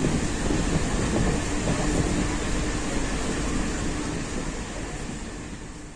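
Train running along the track: a steady rumble with a faint hum, growing fainter near the end.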